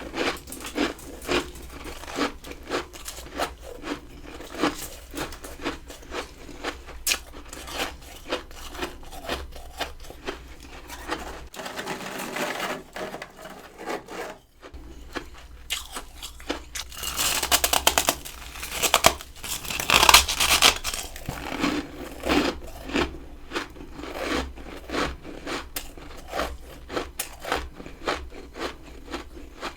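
Someone biting and chewing crunchy freezer frost close to the microphone, in crisp crunches about every half second to a second. About 17 seconds in comes a denser, louder run of crunching lasting a few seconds.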